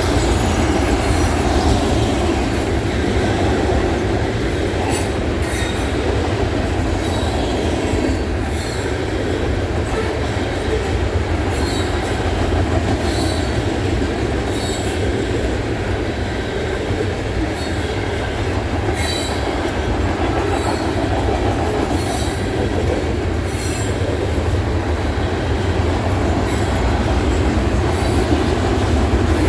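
Long loaded freight trash train rolling past: a steady rumble of railcars, with short high squeals and clicks from the wheels every second or two.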